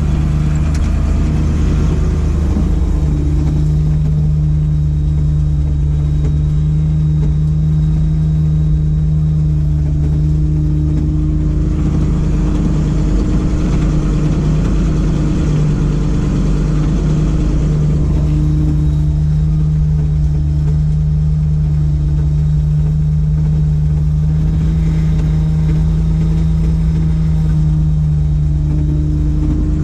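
Ford F700's 370 V8 gasoline engine running steadily at a raised speed set by hand throttle, with the PTO engaged and the hydraulic pump turning, as a steady hum. The tone wavers briefly near the middle, then settles again.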